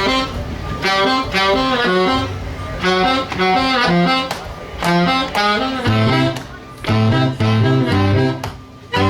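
Live band playing an instrumental passage: a lead melody line moving quickly from note to note, with a bass line coming in strongly about six seconds in.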